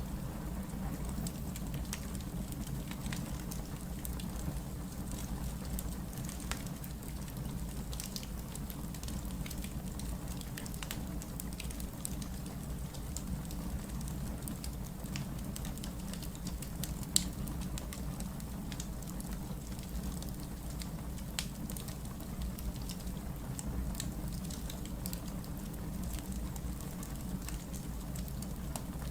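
Wood fire burning with a steady low rumble and scattered small crackles and pops, one sharper pop about seventeen seconds in.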